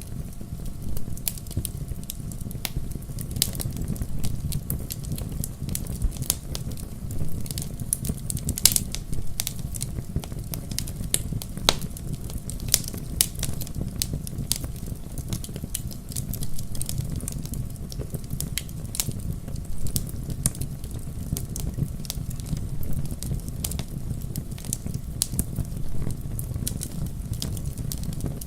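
Wood fire burning in a fireplace, with many irregular sharp crackles and pops over a steady low rumble.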